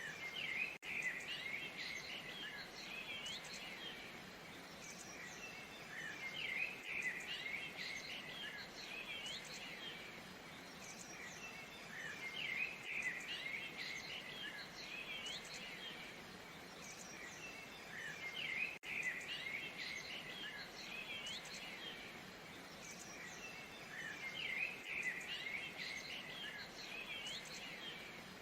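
Steady rush of falling water from a waterfall, with songbirds chirping in bursts that recur about every six seconds.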